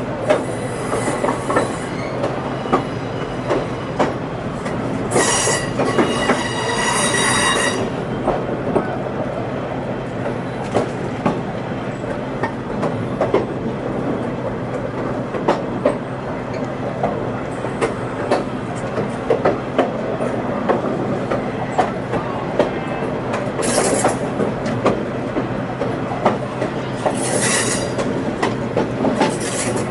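Passenger train running on the rails: a steady rumble with frequent clicks and knocks as the wheels pass over rail joints. A high-pitched wheel squeal starts about five seconds in and lasts a few seconds, with three shorter squeals near the end.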